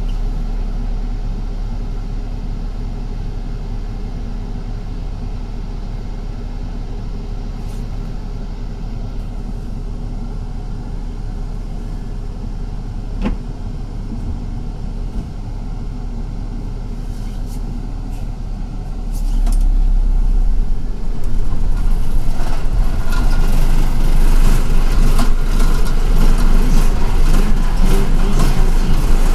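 City bus heard from inside while riding: a steady engine hum, growing louder about two-thirds of the way through, with clicking and rattling after that.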